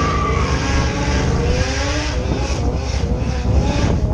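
Drag-racing car engines running, their pitch rising and falling as they rev, over a heavy low rumble.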